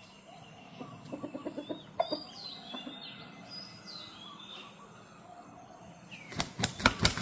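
A decoy junglefowl cock beating its wings: a burst of several loud wingbeats near the end. Wild birds chirp in the background, and a short run of low clucks comes about a second in.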